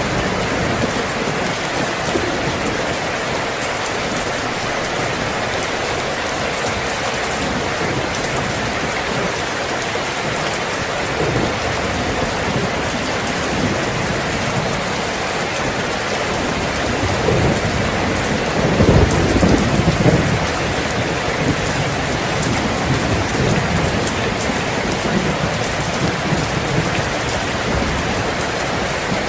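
Steady rain falling, with a low roll of thunder that swells and peaks about two-thirds of the way through.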